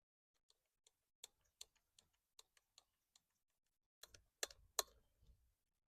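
Faint small clicks and taps of Hayward pool light parts being handled and fitted together, a scattering of them at an uneven pace, then two louder knocks near the end.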